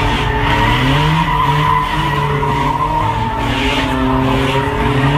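A car spinning its tires at a burnout, with a continuous high tire squeal over an engine held at high revs. The revs climb about a second in and again near the end.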